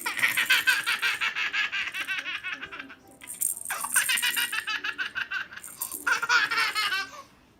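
A baby laughing hard in three long bouts of rapid giggles, with short breaks between them.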